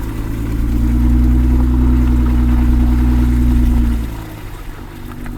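Car engine running with a steady low drone, which falls away about four seconds in as it eases off.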